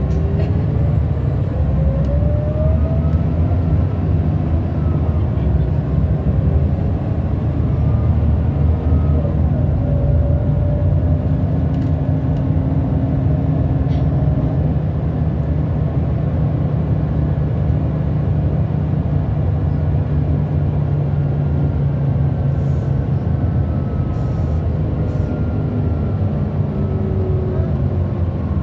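Scania L94UB bus's diesel engine and ZF Ecomat automatic gearbox running steadily as the bus drives. Faint whines rise and fall with the changing speed, most plainly as it pulls away in the first few seconds.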